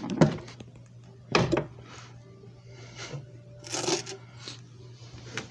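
Handling noises: a few sharp clicks and rustling, scraping bursts over a steady low hum, the loudest near the start, about a second and a half in, and near four seconds.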